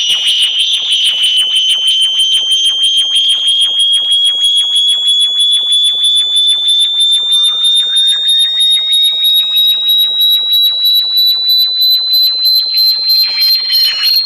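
Electronic high-frequency bat-repellent tone: a piercing synthesized whistle gliding slowly upward, chopped into rapid even pulses several times a second. A second, fainter tone sweeps up beneath it in the second half.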